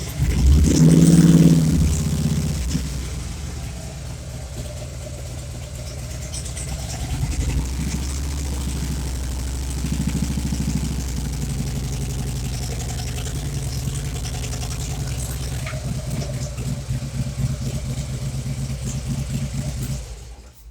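Motorcycle engine running, briefly revved about a second in, then idling steadily. It cuts off near the end, as when the engine is switched off.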